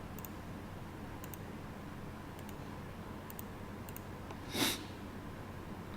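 Faint computer mouse clicks, about five spread over a few seconds, over a low room hum, with one short, louder burst of noise about two-thirds of the way through.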